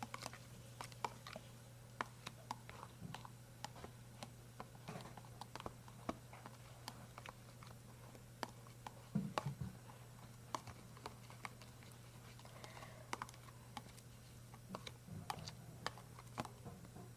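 Glue-and-borax slime being mixed, with many small irregular clicks and sticky pops, over a faint steady low hum.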